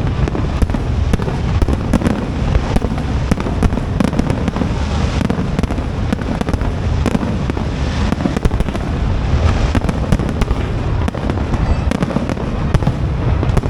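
Aerial fireworks display: a continuous barrage of shell bursts and crackling, rapid bangs over a steady low rumble with no pause.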